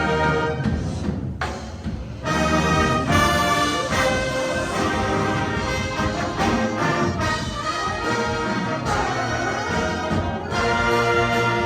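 High school winter winds ensemble playing, brass to the fore, in loud sustained chords; the sound drops away briefly about a second and a half in, then the full ensemble comes back in.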